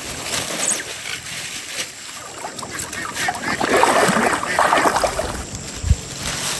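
Water sloshing and splashing in a fast-flowing stream, with a louder spell of splashing about four seconds in and a single low knock near the end.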